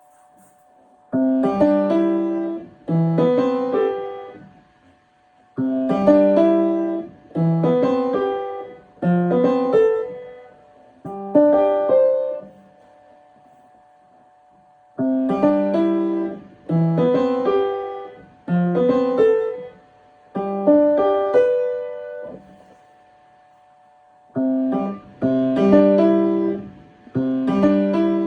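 Piano practice: a short passage played in groups of notes and chords, each note struck and dying away, with brief pauses between phrases. The same passage is started over several times.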